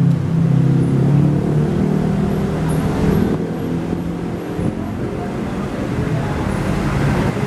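A road vehicle passing on a highway: a low engine hum is strong for the first two seconds, then fades into steady traffic noise.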